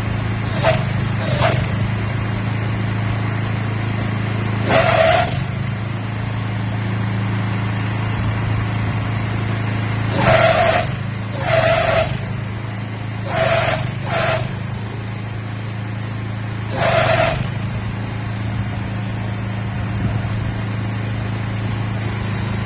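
The Mitsubishi engine of a crawler walnut shaker running steadily, with about eight short, louder bursts of a higher sound rising over it at irregular intervals.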